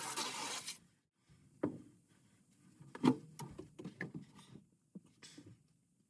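A hiss of spray that cuts off just under a second in, followed by scattered light knocks and rattles.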